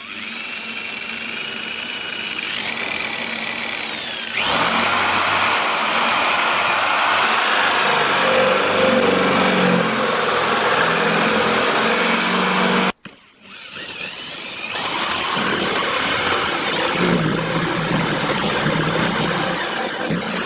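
Handheld electric power tool running with a steady high whine, growing louder and rougher about four seconds in. It cuts out abruptly for a moment a little past halfway, then runs on.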